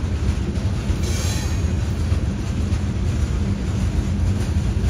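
CSX freight train cars rolling past with a steady rumble of wheels on rail, with a brief higher hiss about a second in.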